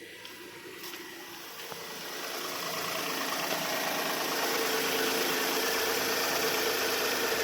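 Renault Quid's three-cylinder petrol engine idling steadily, just started after standing a month. It grows louder over the first three seconds, then holds steady.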